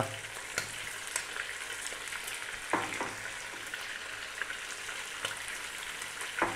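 Stewing lamb with chopped onion and celery sizzling in oil in a pot over medium heat, a steady crackle with small pops. A couple of brief louder knocks come about three seconds in, and another near the end.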